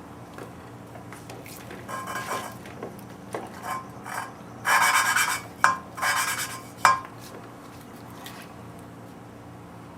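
Valve being lapped into its seat in a Ford 302 cylinder head: gritty scraping of lapping compound as the valve is spun back and forth against the seat. It comes in several bursts from about two to seven seconds in, with a few sharp metallic clicks.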